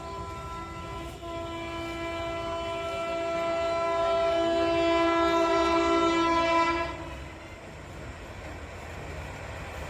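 Train horn sounding one long blast of two tones together, held for about seven seconds before cutting off, over the steady rumble of a passing train.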